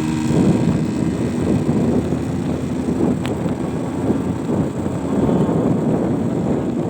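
Wind rushing over the camera microphone while riding at speed through a sandstorm, with the engine running underneath as a faint steady hum that fades about three seconds in; one brief click just after three seconds.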